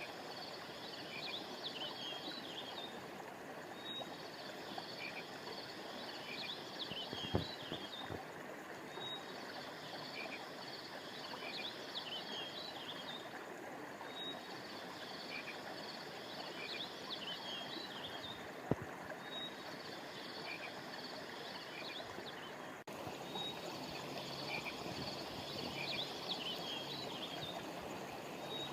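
Steady rush of flowing river water under a chorus of small high chirping calls that repeats about every five seconds, as in a looped nature recording. Two brief sharp knocks stand out, one about seven seconds in and one near nineteen seconds.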